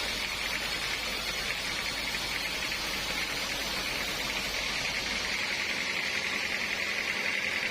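Sawmill saw cutting through a teak log: a steady, hissing, noisy whine that gets a little louder near the end.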